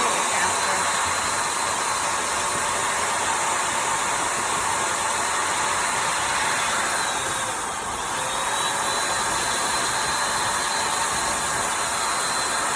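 Electric balloon inflator pump running, blowing air into a balloon with a steady rushing noise and a high motor whine. A little past halfway it briefly winds down and spins back up.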